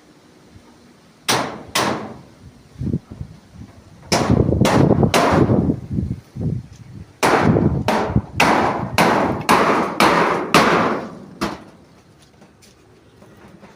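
Hammer blows: two strikes early on, a quick flurry of several, then a steady run of about two blows a second that stops a couple of seconds before the end.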